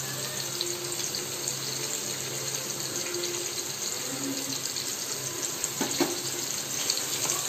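Peeled grapes frying in hot oil in a metal kadai, a steady sizzle, with a light knock about six seconds in.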